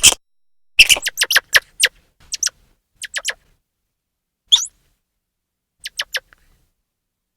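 Grey squirrel chirping alarm calls: short, sharp, high calls that drop in pitch, coming in irregular bursts, with a quick run of about eight calls a second in and scattered single calls and pairs later.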